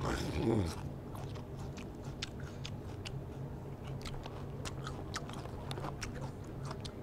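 A person eating crunchy food loudly on purpose, open-mouthed chewing and smacking heard as a run of irregular crisp clicks and crunches.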